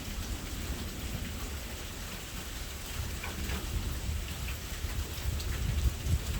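Rain falling during a thunderstorm, an even wash of drops with a steady low rumble underneath.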